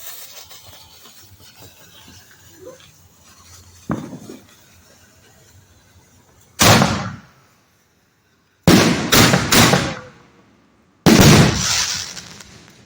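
Canister-shell fireworks: a crackling hiss at first and a smaller thump about four seconds in, then loud booms: one, a quick run of three, and a last one near the end, each trailing off.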